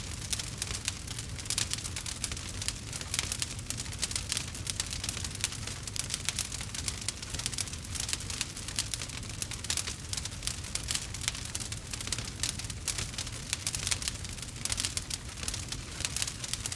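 Wood fire crackling: a dense, irregular stream of small sharp pops and snaps over a low steady rumble.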